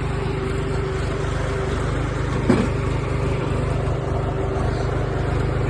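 Tractor engine running steadily while its front loader holds the load, with one short clank about two and a half seconds in.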